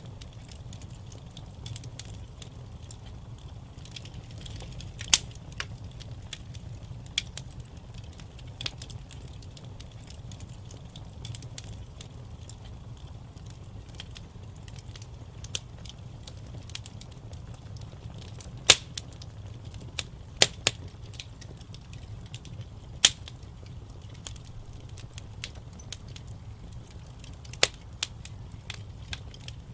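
Wood fire in a fireplace crackling: scattered sharp pops and snaps over a steady low rumble of the flames, the loudest pops about two-thirds of the way through.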